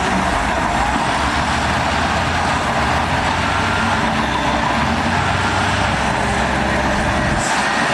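Heavy diesel earthmoving machinery running steadily under load, a dense mechanical noise over a low engine rumble; the low rumble drops away near the end.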